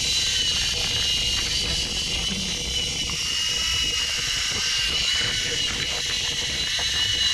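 Quadcopter drone's propellers whining steadily at a high pitch that wavers slightly, over a low wind rumble.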